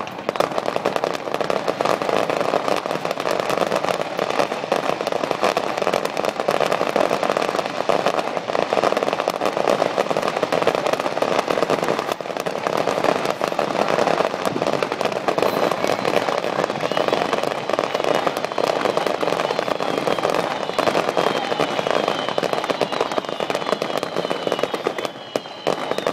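Fireworks display: a dense, continuous barrage of bangs and crackling. High whistling tones join in just past the middle.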